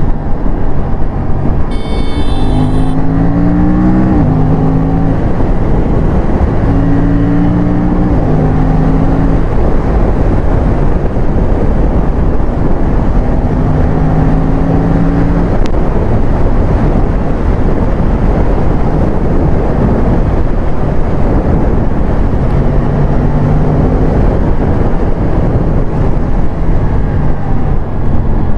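Aprilia RS457's parallel-twin engine at full throttle, its pitch climbing in several runs through the gears and stepping down at each change.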